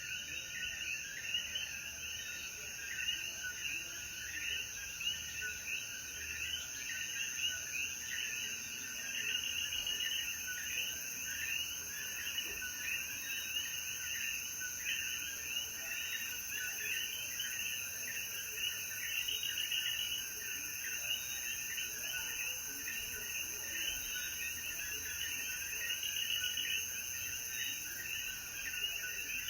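Chorus of Puerto Rican coquí frogs: many overlapping short rising calls, repeating steadily without pause, over a steady high-pitched whine.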